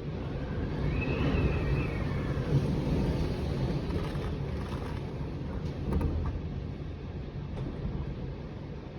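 Typhoon wind gusting hard and buffeting the microphone, with a brief whistle that rises and falls about a second in. The gusts swell twice, the second about two-thirds of the way through.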